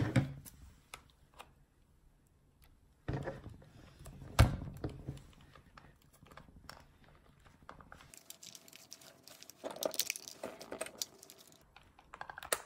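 Scissors working at a plastic zip tie under a Furby's fur skin: scattered clicks, snips and rustling, with one sharp snap about four seconds in.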